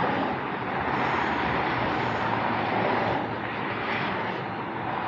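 Steady rush of Autobahn traffic, the tyre and engine noise of many vehicles blending into one, swelling and easing slightly as they pass.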